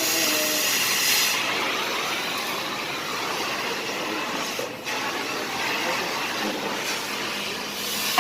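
Power tool cutting through a steel exhaust pipe: a steady, harsh grinding noise, with a brief break about five seconds in.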